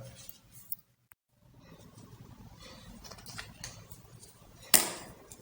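Faint handling noise of a DSLR camera body: light rustling and small clicks, with one sharp click near the end.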